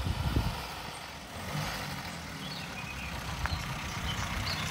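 Austin 7's small four-cylinder side-valve engine, a standard engine with an SU carburettor, running at low speed as the car drives up slowly.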